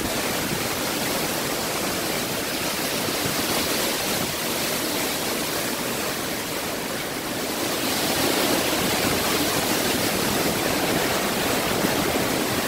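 Hurricane-force wind with driving rain, a steady rushing noise that grows a little louder about eight seconds in.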